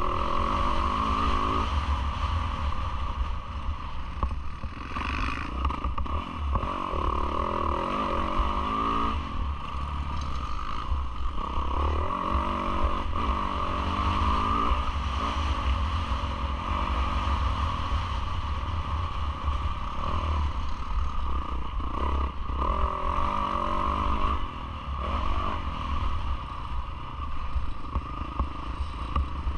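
Yamaha YZ450F four-stroke motocross engine under race load, its pitch rising and falling again and again as the throttle is opened and closed, with heavy wind rumble and chassis clatter on the on-board camera.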